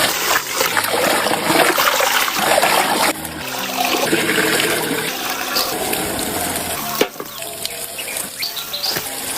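Water running from a tap and splashing as pickled cabbage is rinsed by hand, with background music.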